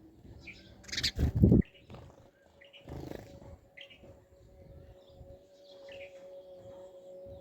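Wild birds giving short, high chirps. About a second in comes a brief, loud, noisy burst, and a steady low hum sets in from midway on.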